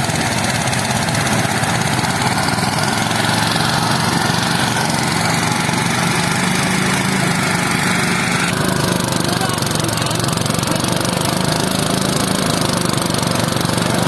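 A small engine running steadily under load, with a dense mechanical clatter over it; the higher part of the noise changes tone about eight and a half seconds in.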